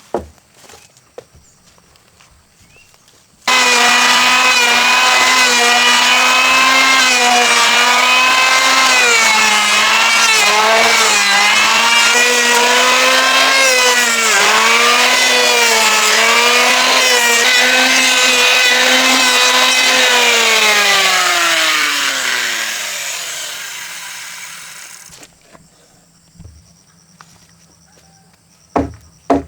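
An electric power tool starts abruptly at full speed, its pitch dipping again and again as it takes load cutting timber. Near the end it switches off and winds down in a smooth falling glide over a few seconds.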